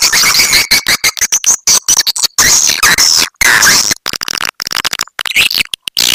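Recorded swiftlet lure call: dense, shrill chirping and twittering of many swiftlets, broken by many sudden brief cuts to silence.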